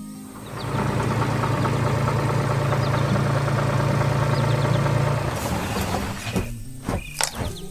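Animated sound effect of a heavy vehicle engine running steadily, starting about half a second in and dying away after about five seconds, followed by a few sharp knocks near the end.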